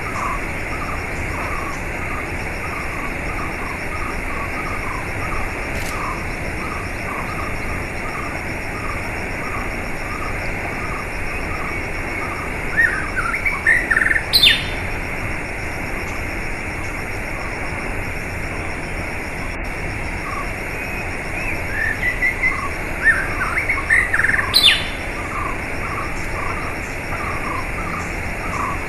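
Songbirds chirping and singing over a steady rush of flowing water, with short repeated call notes throughout. Two louder phrases of song with quick rising and falling whistles come about halfway through and again near the end.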